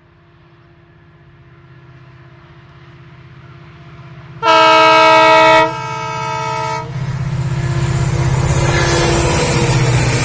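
Express train approaching, its rumble growing steadily louder. About four and a half seconds in, the locomotive sounds a horn blast of a little over two seconds, loudest for its first second and then softer.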